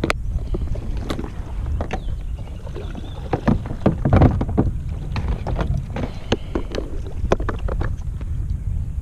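Wind rumbling on the microphone, with scattered sharp clicks and knocks throughout, the loudest cluster about four seconds in.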